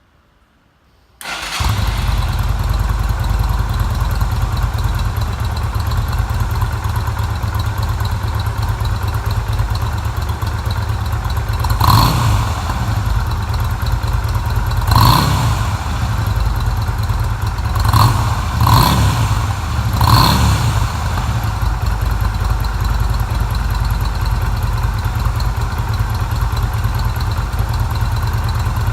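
A 2008 Yamaha V Star 250's small air-cooled V-twin running through its stock exhaust. It cuts in abruptly about a second in, then idles steadily with a low, even rumble, with five short throttle blips around the middle.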